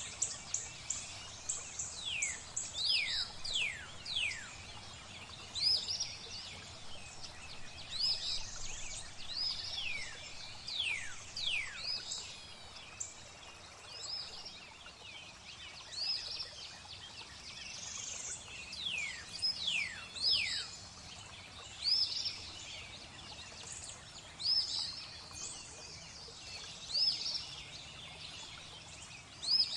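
Songbirds calling: many short high chirps and repeated quick whistles that slide steeply downward in pitch, scattered irregularly, over a faint steady hiss.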